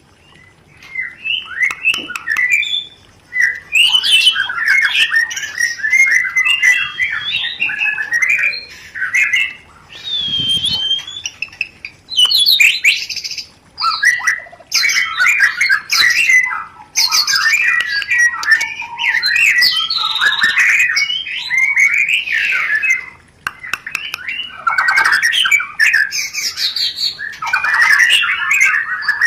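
White-rumped shama (murai batu) in breeding condition, singing long, rapidly varied phrases mixed with harsh chattering runs, with a few brief pauses. This is breeding-mood song of the kind played to stimulate other shamas to breed.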